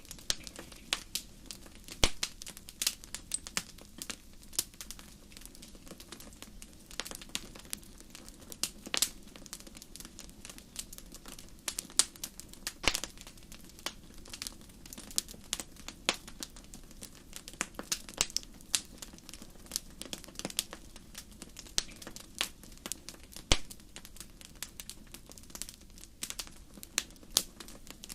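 Wood campfire crackling: irregular sharp pops and snaps, several a second with a few louder ones, over a steady low background of the burning fire.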